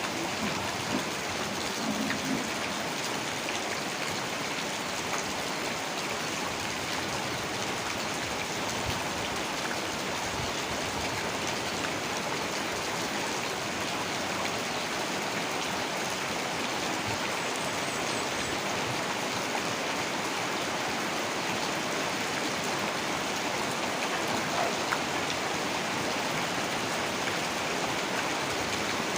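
Heavy rain falling steadily: an even wash of rain with scattered drop ticks.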